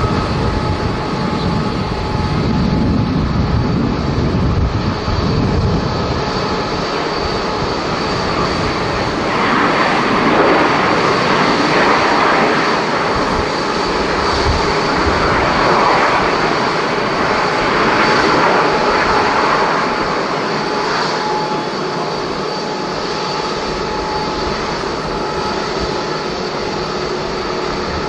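Jet airliner engines running past with a steady rumble and high whine tones, swelling about a third of the way in and easing off near the end.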